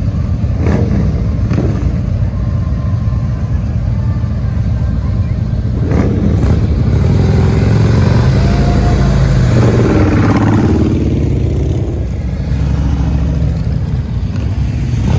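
Motorcycle engines running, revving up and getting louder through the middle, then easing off, with a few sharp knocks in the first seconds.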